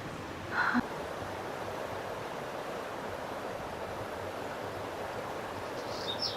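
Steady rushing of a rainforest stream, with a short louder sound about half a second in and a few quick high chirps near the end.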